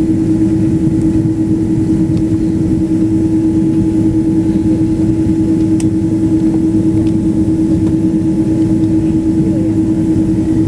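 Steady airliner cabin noise before takeoff: a low rumble with a constant droning hum that does not change.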